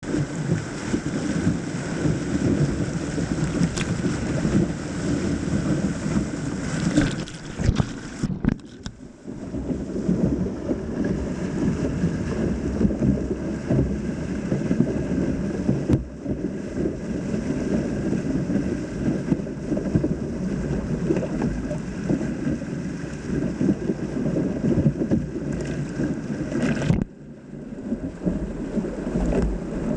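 Rushing whitewater of river rapids mixed with wind buffeting the microphone, a heavy steady rumble that dips briefly about eight seconds in and again near the end.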